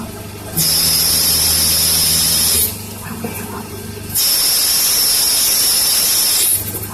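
Small CNC lathe running a turning program: a steady high motor whine with a low hum sounds for about two seconds, stops for a second and a half, then starts again for about two seconds, with faint ticks in the quieter gaps.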